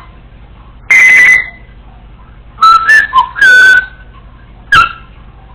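Congo African grey parrot whistling loudly: one whistled note about a second in, a run of several whistled notes at shifting pitches in the middle, and a short sharp note near the end.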